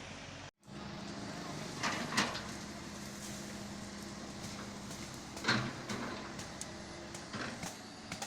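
Komatsu excavator's diesel engine running steadily, with several sharp knocks at irregular intervals. The sound cuts out for a moment about half a second in.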